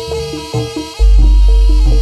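Live jaranan gamelan music played loud through a sound system: pitched metallophone and melody notes in a repeating pattern, with a deep gong stroke about a second in that rings on.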